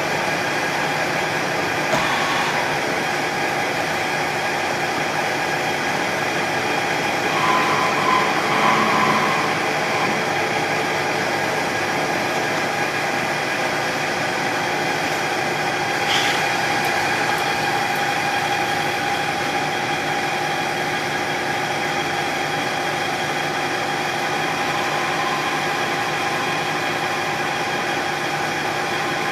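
Metal lathe running steadily while turning a custom shift knob true, with a brief louder stretch of cutting about 7 to 9 seconds in and a sharp click at about 16 seconds.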